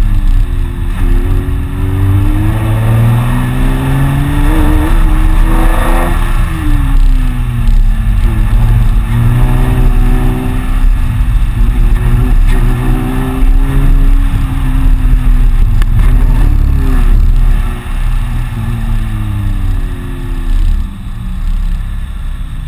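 Car engine heard from inside the cabin while the car is driven hard through a coned course, its pitch repeatedly rising and falling as it accelerates and backs off, over steady road and wind noise. It is somewhat quieter over the last few seconds.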